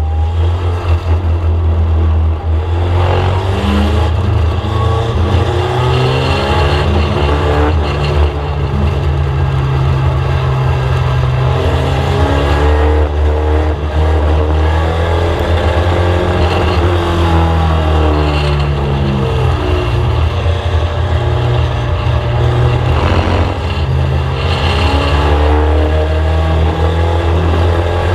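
Race-prepared Mk1 VW Scirocco's four-cylinder engine, heard from inside the car, revving up and easing off over and over as the car accelerates and lifts around the oval. The engine's pitch climbs and drops every several seconds over a constant low drone.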